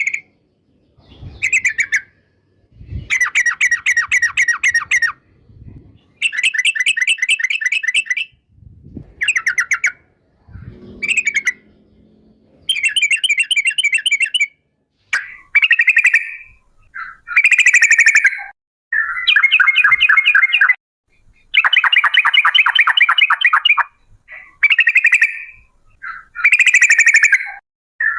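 Yellow-vented bulbul (trucukan) singing: a dozen or so bouts of fast, stuttering, rolling chatter, each one to two and a half seconds long, with short pauses between them.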